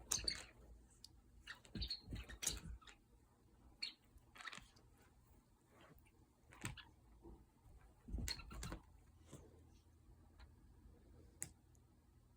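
A cat playing with a toy: irregular rustles, clicks and soft thumps come in scattered clusters with quiet gaps between.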